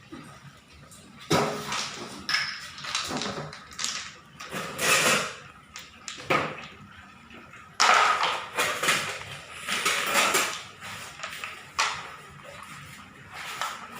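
Small stones clattering and scraping against a toy dump truck in irregular bursts of knocks and rattles. The loudest clatter starts suddenly about eight seconds in.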